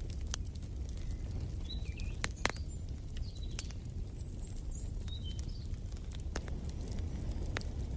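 Wood fire crackling, with scattered sharp pops over a low steady rumble, and a bird giving a few short high chirps.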